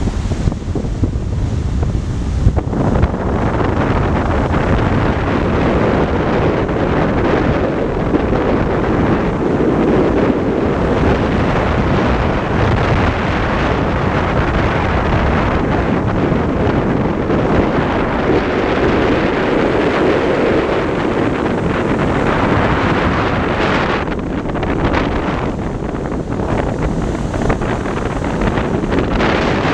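Strong wind buffeting the microphone over rough sea waves: a dense, steady rush of noise that grows louder about three seconds in and eases briefly near the end.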